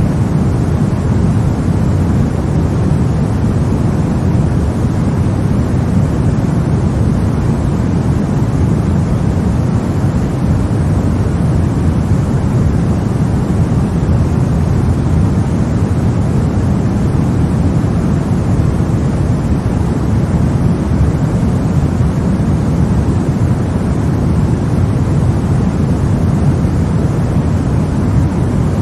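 Continuous sleep-aid noise for babies: a steady, unchanging hiss-like rumble, heaviest in the low end and thinning out toward the top.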